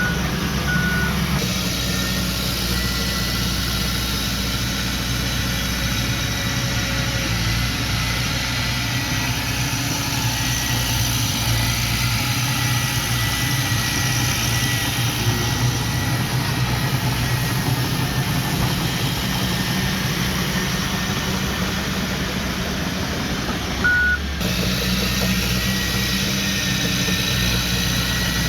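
Diesel engine of heavy earthmoving machinery running steadily, with a few short high beeps near the start and one more near the end.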